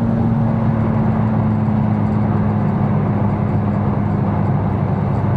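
Tuned 750-horsepower BMW M4's twin-turbo inline-six cruising at steady revs, a constant drone.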